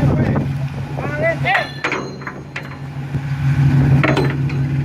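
A steady low engine drone with a few sharp knocks, about a second and a half, two and a half and four seconds in.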